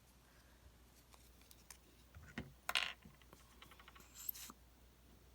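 Paper pieces being handled on a tabletop: a few light taps and ticks, a brief rustle about halfway through and a short scrape a little later.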